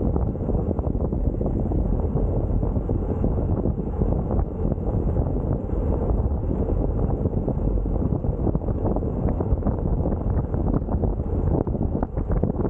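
Wind blowing across the microphone: a steady low noise with quick, uneven flutters.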